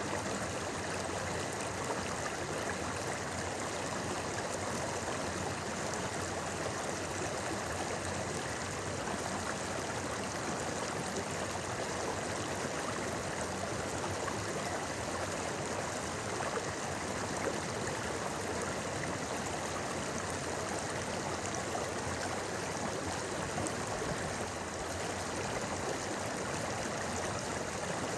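A shallow river babbling and gurgling over stones, a steady, even rush of flowing water.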